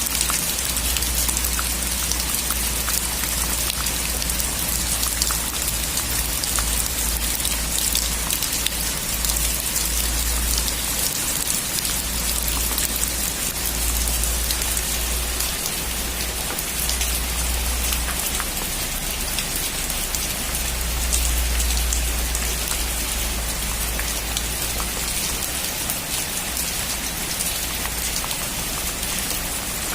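Heavy rain drumming steadily on a metal roof, with a dense patter of individual drops and a low rumble underneath that swells and fades.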